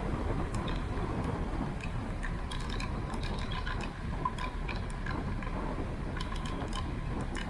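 Steady wind and road rumble on a moving rider's microphone, with scattered light mechanical clicks and ticks throughout.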